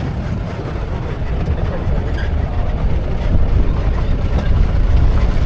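Safari jeep driving through the jungle: a low, uneven rumble of the vehicle with wind buffeting the microphone.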